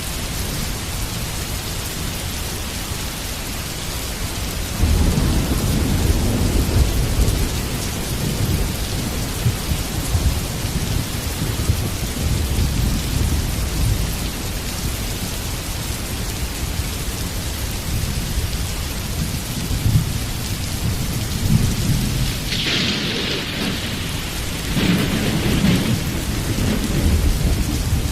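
Heavy rain falling steadily, with thunder rolling underneath. A low rumble swells about five seconds in and keeps rolling, then a sharper crack of thunder comes about three quarters of the way through, followed by more rumbling.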